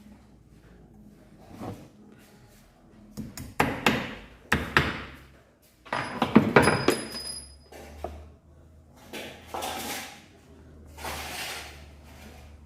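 Metal motorcycle engine parts and tools being handled while the cylinder is fitted: irregular clinks, knocks and scrapes, with a short metallic ring about six seconds in.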